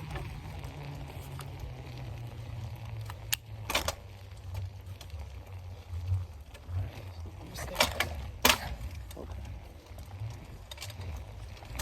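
Bicycle being ridden: a steady low rumble of wind and rolling, with a few sharp clicks and rattles, loudest about eight seconds in.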